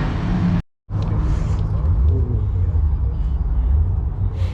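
Car engines idling at a car meet, a steady low rumble with faint chatter of people behind it, broken by a brief dropout to silence under a second in.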